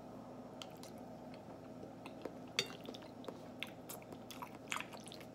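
A person chewing a mouthful of soft baked macaroni close to the microphone: wet squishy mouth sounds with scattered short clicks, one louder click about two and a half seconds in.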